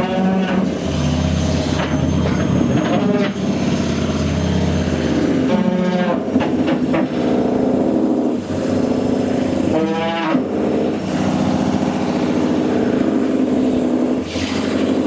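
AEG washing machine's motor spinning a fully loaded drum, a loud droning hum whose pitch sweeps up and down every few seconds. This is the spin in which the motor went faulty.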